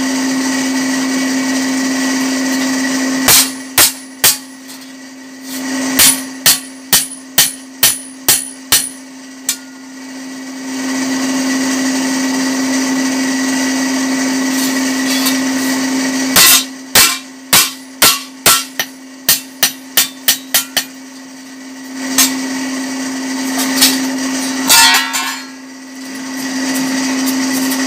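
Hand hammer striking a red-hot fodder-chopper blade on the anvil in runs of quick blows, about two to three a second, to beat its edge thin. Under it the electric forge blower hums steadily, louder in the pauses between the runs.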